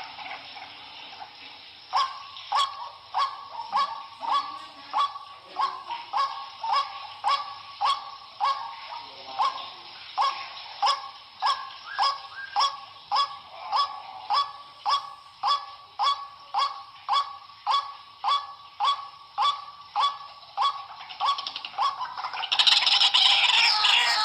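White-breasted waterhen (ruak-ruak) giving its harsh honking "kru-ak" call over and over, about two calls a second. Near the end the calling turns louder and busier.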